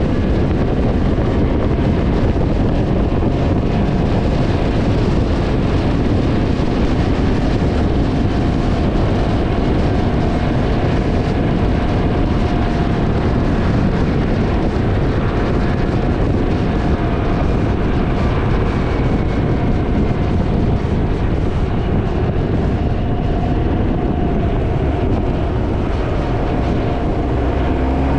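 Heavy wind buffeting on the microphone of a moving Can-Am Ryker three-wheeler, a loud steady rumble, with the engine running faintly underneath.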